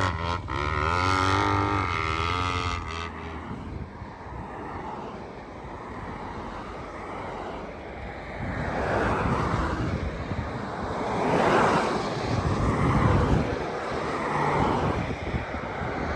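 250 cc four-stroke single-cylinder dirt bike engine, its pitch rising and falling for about the first three seconds. After that a rushing noise with no clear pitch takes over, swelling and fading several times.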